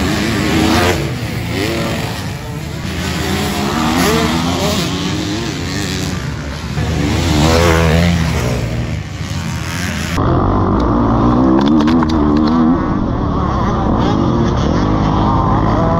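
Four-stroke Kawasaki 450 KX-F motocross bike engine revving up and down repeatedly as it is ridden hard. About ten seconds in, the sound turns duller and muffled, and the revving goes on.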